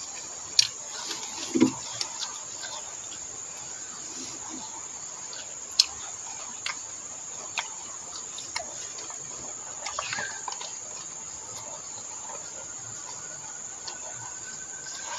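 Insects droning steadily on one high note, with scattered sharp clicks and smacks of someone eating close by, a few of them louder than the drone.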